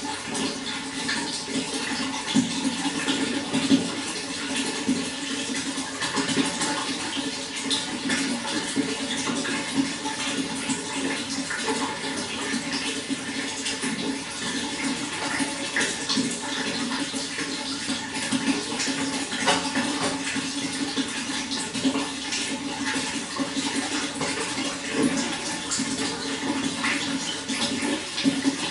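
Running water flowing and splashing steadily, full of small droplet splashes over a constant rushing sound.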